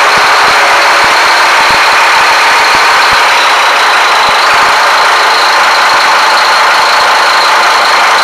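Scania marine diesel engines running in a ship's engine room: a loud, steady mechanical din with a steady high whine on top.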